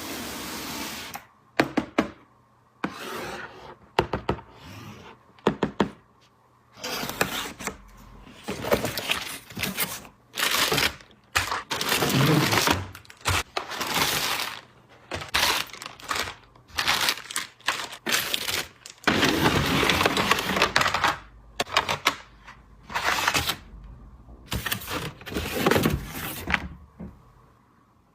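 Plastic toy pieces and packaging being handled during unboxing: irregular sharp clicks and taps mixed with bursts of rustling lasting a second or two.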